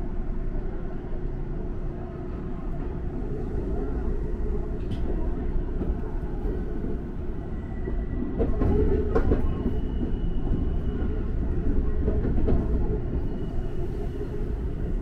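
Electric train running on the rails, heard from inside the front car: a steady rumble of wheels and running gear with a few sharp clacks. It grows louder about eight seconds in.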